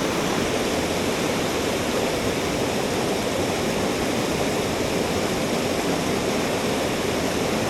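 Rushing water of a mountain stream, a steady even noise with no break.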